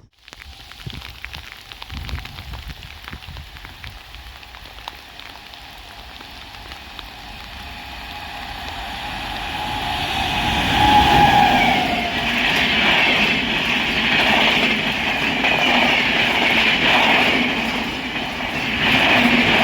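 Steady rain, then an Indian Railways express train approaching and passing at speed. It grows steadily louder to a peak about halfway through, with a short falling tone just before the peak. Its wheels then clatter in a repeating beat over the rail joints.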